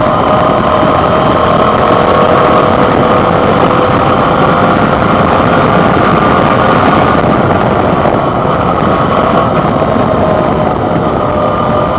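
Suzuki V-Strom 650's 645 cc V-twin engine running at a steady engine speed under heavy wind rush, picked up by a handlebar-mounted camera's built-in microphone.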